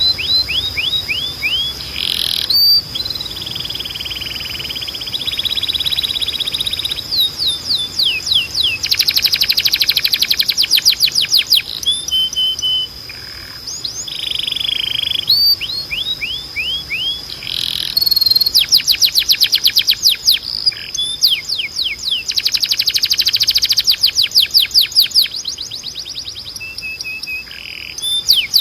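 Timbrado canary singing: phrase after phrase of fast trills made of quick down-sweeping notes, changing from one tour to the next, with a thin steady high tone underneath.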